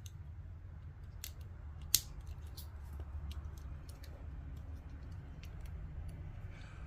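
Small plastic Lego parts clicking as wheels and tires are pressed onto a model car: scattered sharp clicks, with one louder snap about two seconds in, over a steady low hum.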